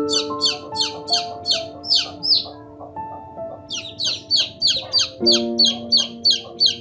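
A bird chirping rapidly, repeated short down-slurred chirps about four a second, with a brief pause partway through, over soft background music with long held notes.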